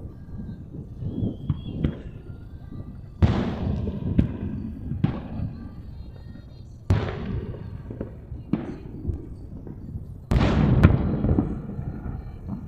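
Aerial firework shells bursting: a series of deep booms about every one and a half to two seconds, each trailing off in a rumbling echo. The biggest burst comes near the end.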